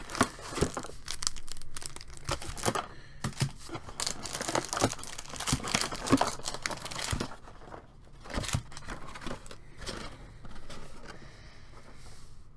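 Crinkling and rustling of a trading-card box's cardboard insert and card packs being handled, with irregular crackles and clicks. The handling is busiest for the first seven seconds or so, then thins out and gets quieter.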